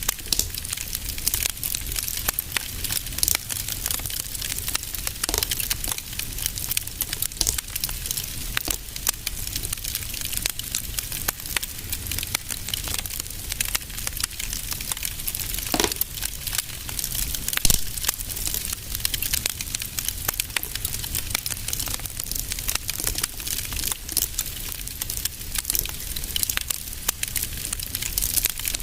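Fireplace fire crackling with many small irregular pops over a low steady rumble, a couple of louder single pops around the middle.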